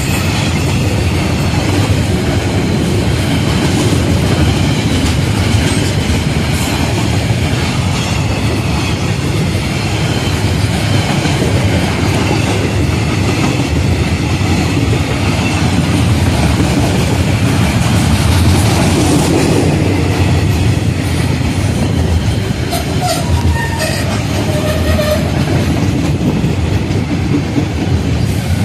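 Container wagons of a long freight train rolling past close by: a steady, loud noise of steel wheels running over the rails.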